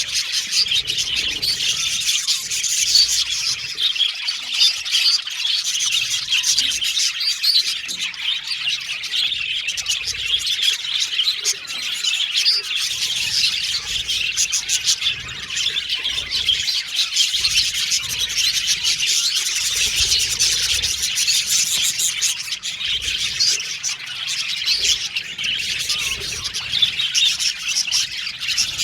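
Budgerigars chirping and warbling: a steady, dense chatter of many overlapping high calls.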